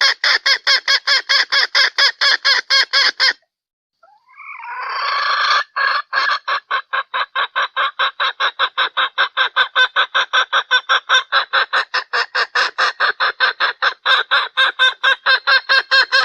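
Played-back lure call of a junglefowl hen: rapid, even clucks about five a second. They cut off suddenly a few seconds in, go silent for under a second, then start again with a rising note and keep going.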